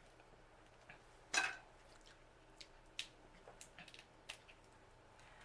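Faint, sparse sounds of eating a seafood boil by hand: a short wet squish about a second and a half in, then scattered small clicks.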